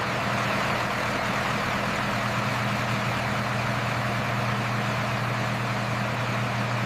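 An engine running steadily at idle: a constant low hum that holds the same pitch throughout.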